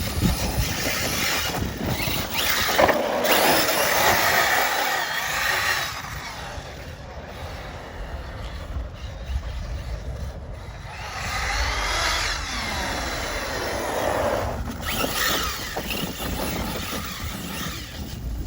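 Brushless electric motor of a 6S RC basher whining as the truck speeds around, the pitch rising and falling, with two louder passes, one a few seconds in and one in the second half. Tyre and dirt noise over a steady low rumble runs beneath.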